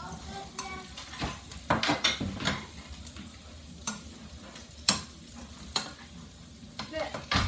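Chopped garlic sizzling in hot oil in a stir-fry pan, with a spatula knocking and scraping against the pan every second or so as it is stirred.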